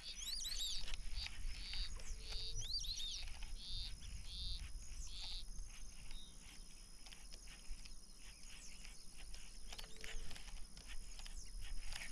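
Birds calling in a quick run of short, high chirps for the first five seconds or so, then only now and then, over faint outdoor background noise.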